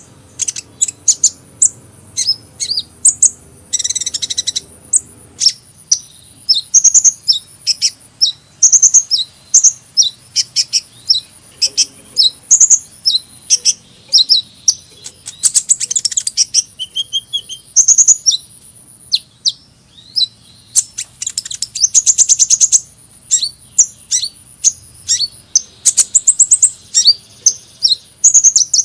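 A sunbird singing: a rapid string of very high, thin chirps and twitters, broken by several fast, buzzy trills.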